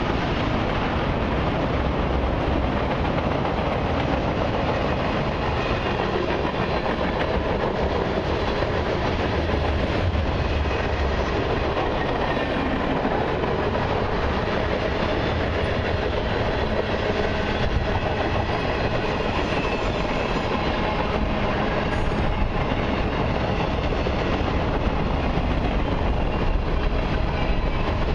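Long mixed freight train's cars rolling past: tank cars, covered hoppers and flatcars, their steel wheels running on the rails in a steady rolling noise.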